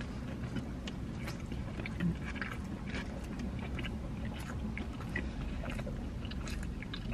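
Two people chewing mouthfuls of a soft burger, with many small wet mouth clicks, over a low steady hum.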